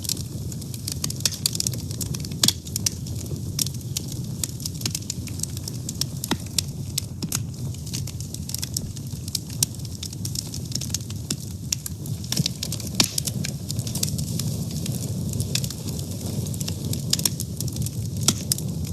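A wood fire burning, with a steady low rumble of flames and frequent sharp crackles and pops, several a second.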